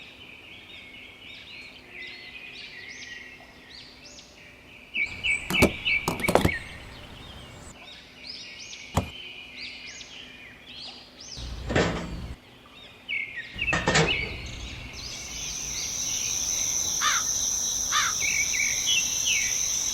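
Small birds chirping over a low background, broken by a few sharp knocks. About three quarters of the way through, a steady high-pitched whine comes in and holds.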